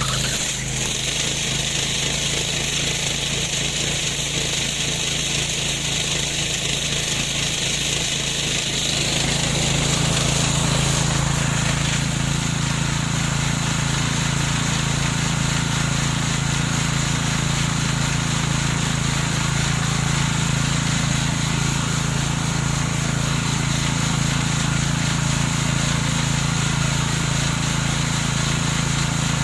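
Remote-controlled lawn mower's engine running steadily. About nine seconds in its tone shifts and it grows a little louder.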